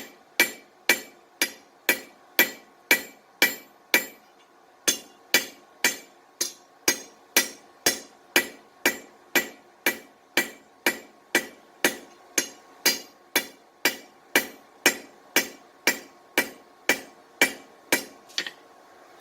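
Hand hammer striking hot steel on an anvil, about two blows a second, each with a bright ring. The strikes are drawing out the taper on a forged iron curtain rod. There is a brief pause about four seconds in, and the blows stop just before the end.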